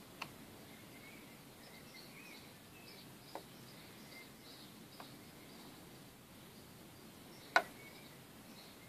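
Faint outdoor background with distant birds chirping softly on and off. A few sharp clicks stand out, the loudest about three-quarters of the way through.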